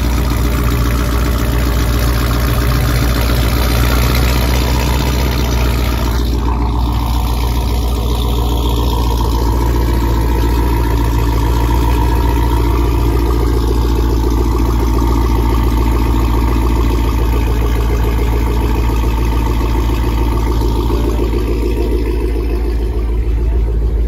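Jeep Grand Cherokee engine idling steadily, loud and deep, heard from behind at its exhaust.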